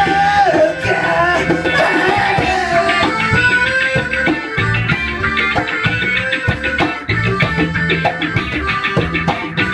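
Live band music: an instrumental passage between sung lines, with a steady beat of drums and bass under a melodic line.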